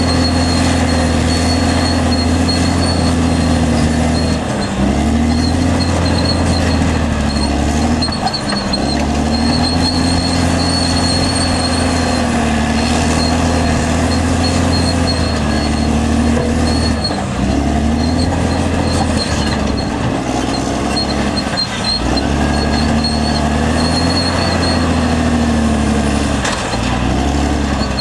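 Caterpillar D6R XL crawler bulldozer's diesel engine running hard, its note dipping briefly and recovering several times, with a steady high whine alongside.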